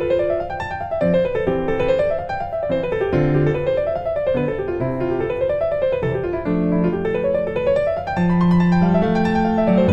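Background music: piano or keyboard playing quick rising and falling arpeggios over sustained bass notes.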